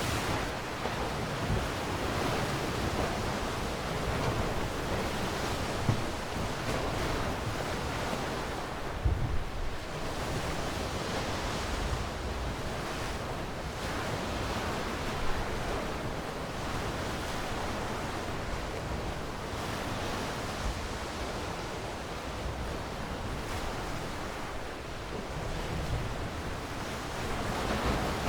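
Sea waves washing onto a shore in a steady surf that swells and eases slowly. A few brief low thumps come through, about six, nine and fifteen seconds in.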